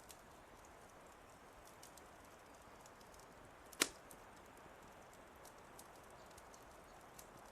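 Wood fire crackling softly: a faint steady hiss with scattered small crackles and one sharp, loud pop about four seconds in.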